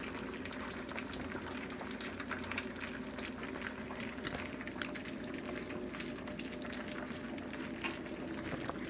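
Several young puppies lapping and smacking at soaked, mashed dog food: a dense run of small, irregular wet clicks and slurps, over a steady low hum.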